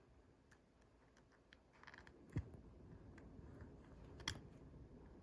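Faint clicks and taps from handling an iPhone and small repair tools, with a dull knock about two and a half seconds in and a sharper click near the end.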